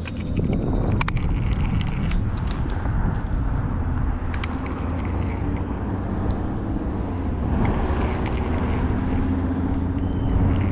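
A motor running steadily with a low hum, with a few light clicks scattered through it.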